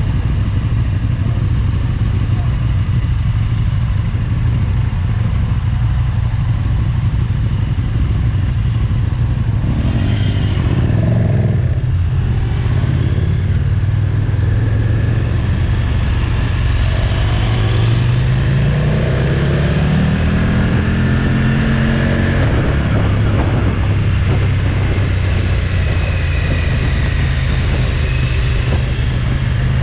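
Motorcycle engine running at road speed, revving up in a steady rising pitch for several seconds about halfway through, then dropping suddenly at a gear change.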